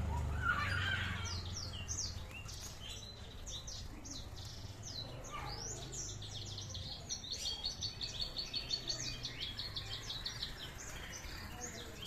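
Red siskins chirping: many short high calls, with a fast, even series of repeated notes between about seven and nine and a half seconds in.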